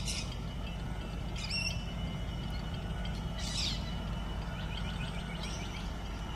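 Birds calling four times, short high chirps a second or two apart, over a steady low rumble.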